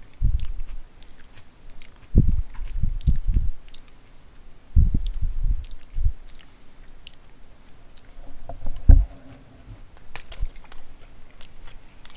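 A person chewing a mouthful of footlong sub sandwich, with wet mouth smacks and low jaw thuds coming in spells of a second or so with pauses between. The loudest single thud comes about three-quarters of the way through.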